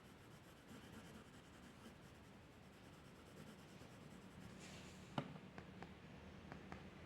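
Faint scratching of a drawing tool stroking across paper, with a sharp tap about five seconds in and a few lighter clicks after it.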